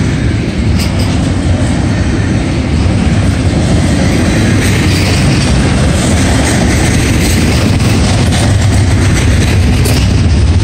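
Double-stack intermodal container cars rolling past: a steady loud rumble of steel wheels on the rails, with clicking as the wheels cross the rail joints.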